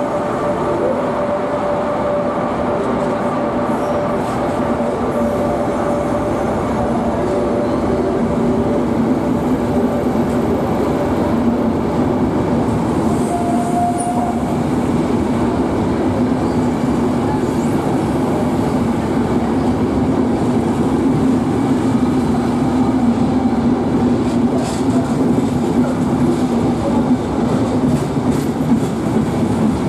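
Locomotive-hauled passenger train of coaches rolling slowly past in an underground station: a steady rumble of wheels on rail with a faint hum. A brief, short squeal comes about 14 seconds in.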